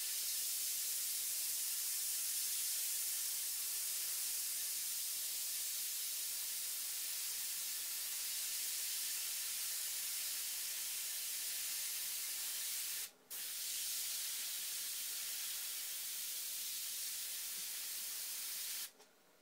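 Airbrush spraying paint, a steady hiss of air with a short break about two-thirds of the way through; it stops shortly before the end.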